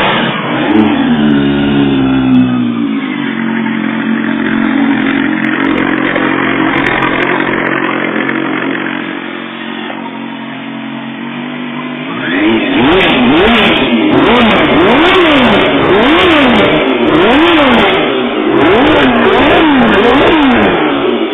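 Yamaha YZF1000 inline-four running through a Yoshimura exhaust with the dB killer baffle removed: just after a cold start it runs at a steady fast idle, then from about twelve seconds in the throttle is blipped repeatedly, about once a second, the revs rising and falling each time.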